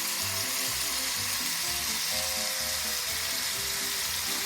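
Chicken pieces sizzling steadily in hot oil in a pan, over quiet background music.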